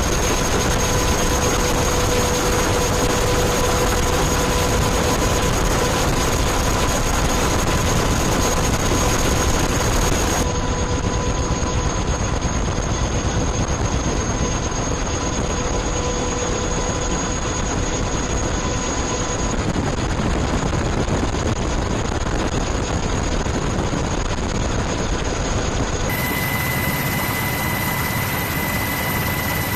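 Aircraft engines running: a steady, loud rushing with a few steady whines over it. The sound changes abruptly twice, about ten seconds in and near the end, as one clip gives way to another.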